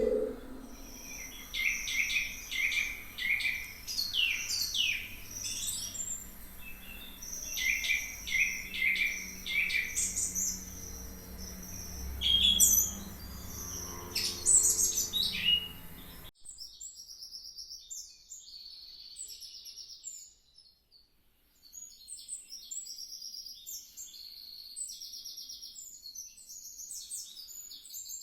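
Songbirds singing in repeated phrases of quick, high notes. About halfway through the sound cuts abruptly to thinner, higher chirping.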